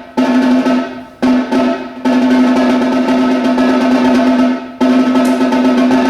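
Snare drum played in sustained rolls, the head ringing steadily. The rolls stop briefly about a second in, again near two seconds and near five seconds, fading down before some of the breaks and starting again at full strength.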